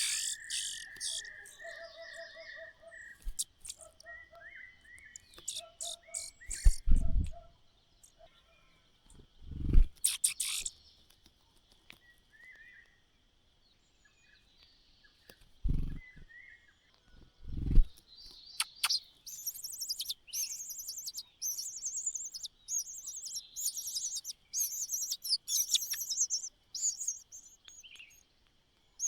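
Small birds chirping, with several dull thumps in the first half. From about nineteen seconds in comes a dense run of rapid, high-pitched chirps.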